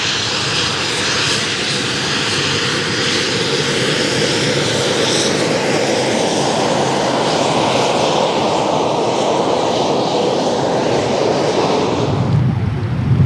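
Eurofighter Typhoon jet engines running loud and steady, with a high whine over the rush in the first few seconds that gives way to a broader, lower rush. Near the end the jet sound cuts off abruptly to wind buffeting the microphone.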